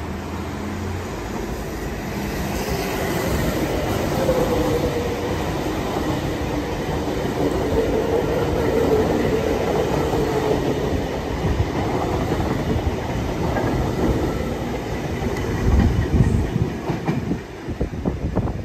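Double-deck suburban electric train running along the platform, its wheels clattering over the rail joints with a wavering whine through the middle. Heavier low thumps come near the end.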